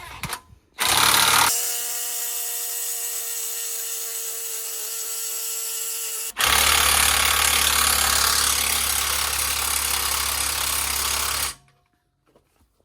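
Impact wrench hammering on a Jeep's wheel lug nuts in two long runs, with a brief break about six seconds in. The wrench is not strong enough to break the lugs loose.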